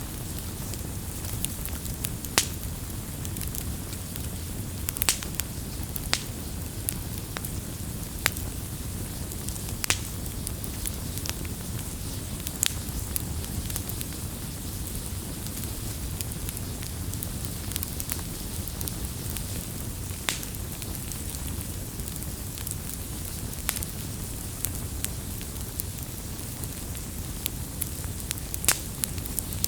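Campfire burning steadily with a low rumble, and sharp crackles and pops of burning wood scattered through it, a few each second.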